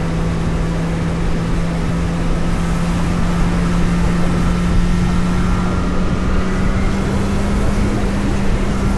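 Vehicle engine droning steadily at cruising speed over road and wind rush, its pitch creeping slightly higher about halfway through.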